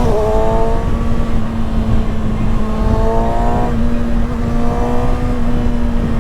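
Kawasaki ZX-6R 636 cc inline-four sportbike engine under way, revs climbing through a gear, dropping sharply about three and a half seconds in, then climbing again, with heavy wind rumble on the rider's microphone.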